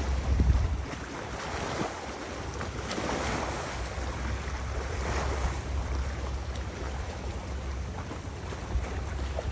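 Wind blowing across the microphone: a steady rushing noise with low rumbling buffets near the start and again near the end.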